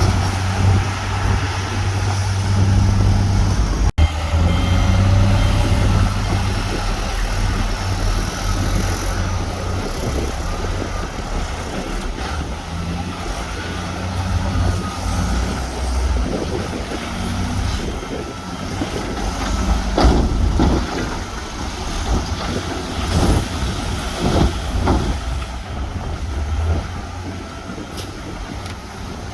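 Heavy diesel earthmoving machines, bulldozers and dump trucks, running with a deep, steady engine drone. About two-thirds of the way through, the drone turns rougher and a run of knocks and clanks comes in.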